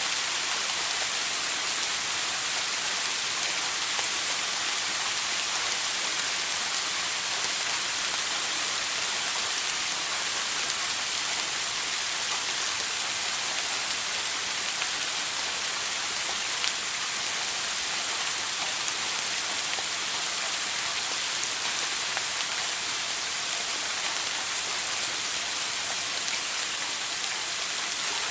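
Shower water spraying steadily, a constant hiss of falling water with brighter high tones and an occasional faint drop tick.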